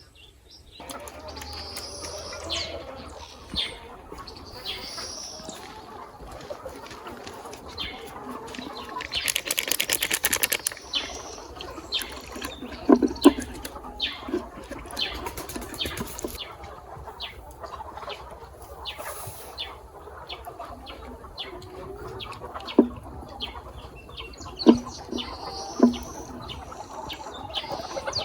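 Chickens in a farmyard, chirping and clucking among scattered clicks. About nine seconds in comes a burst of rapid flapping that lasts nearly two seconds.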